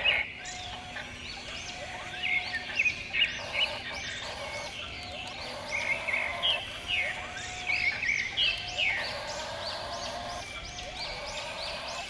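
Birds chirping and calling: many short, repeated chirps that overlap throughout.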